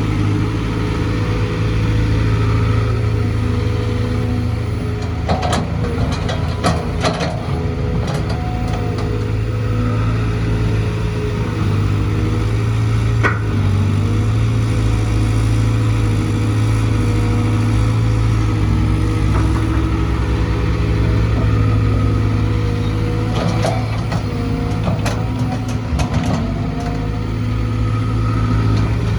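Caterpillar C4.4 four-cylinder 4.4-litre diesel engine of a Cat 320 GC excavator running at a steady speed. A few sharp clicks come through about five seconds in and again near the end.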